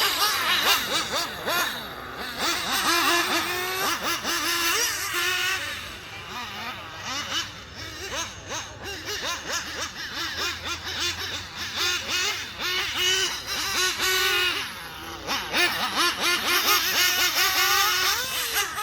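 S-Power S7 nitro RC engine running on its test run, its high-pitched note rising and falling over and over as the throttle is worked.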